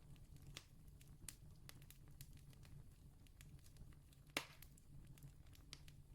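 Faint campfire crackling: scattered wood pops and clicks, with one louder pop a little past the middle, over a steady low rumble.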